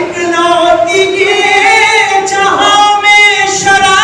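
A man chanting devotional verse (peshkhwani) unaccompanied, in long held melodic notes that waver slightly, with a short break about two and a half seconds in.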